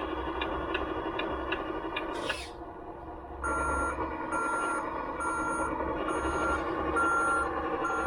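An RC truck's electronic sound unit playing a simulated truck engine idle, with a fast ticking about three to four times a second for the first two seconds. From about three and a half seconds in, a reversing beeper sounds about once every three-quarters of a second over the idle.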